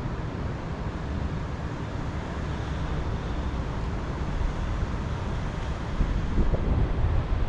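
Wind gusting against the microphone, a low uneven rumble that grows stronger about six seconds in.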